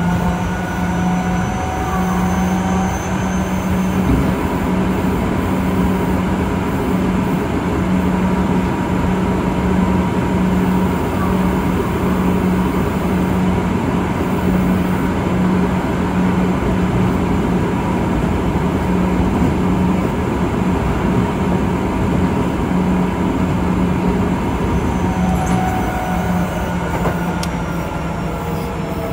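On-board running sound of an Osaka Metro 66 series train with Toshiba IGBT VVVF inverter control: the traction motors' whine cuts out about three seconds in as the train goes to coasting, leaving steady wheel and rail noise with a low hum. Near the end, a whine falls steadily in pitch as the electric brake slows the train.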